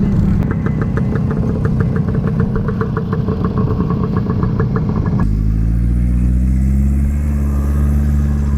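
Motorcycle engines running. First comes a rough rumble with a rapid, even clatter of about six ticks a second. About five seconds in it changes suddenly to a steady engine drone whose pitch slowly rises.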